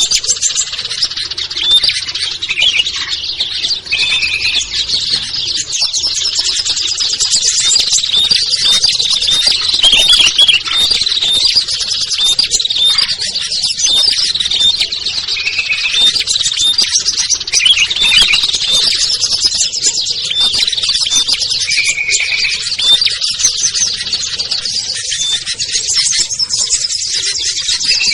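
A dense, continuous chorus of many small songbirds chirping and trilling over one another: a bird-lure recording meant to draw wild small birds down. A few short, steady, lower whistles stand out at about 4, 15 and 22 seconds.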